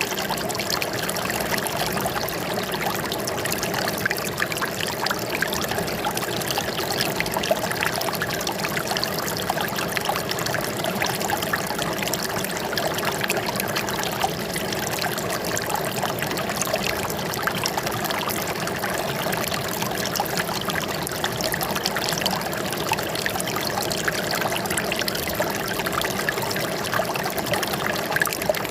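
Running water trickling and splashing steadily, like a small stream over stones.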